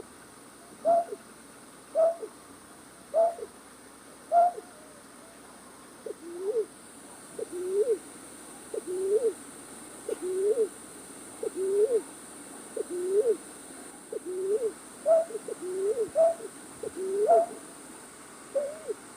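Night-bird calls played as a trapping lure: short pitched calls repeated about once a second, first a higher call with a falling hook, then from about six seconds in a lower rising call, with the higher calls mixed back in near the end.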